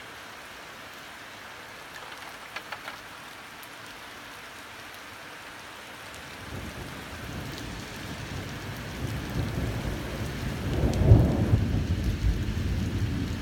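Steady hiss of heavy rain during a thunderstorm. About six seconds in, a low roll of thunder builds up, is loudest about eleven seconds in, and keeps rumbling.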